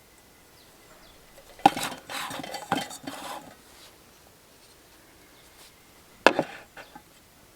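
Camp cookware and utensils clinking and rattling as they are handled: a cluster of clinks and rattles for a couple of seconds, then one sharp clink and a few lighter taps near the end.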